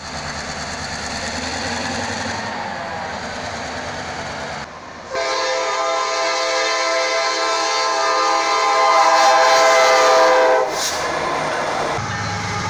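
A diesel freight train rumbles by. Then a locomotive horn sounds one long, steady chord of about five seconds, loudest just before it cuts off abruptly. It is followed by more train rumble.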